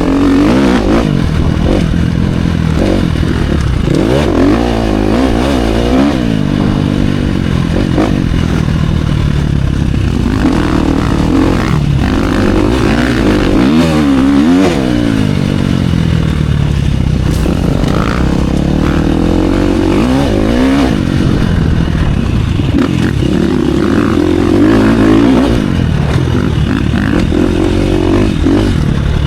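Dirt bike engine revving hard and backing off again and again as it is ridden around a motocross track, heard up close from the rider. The pitch climbs and drops every few seconds through the jumps and corners.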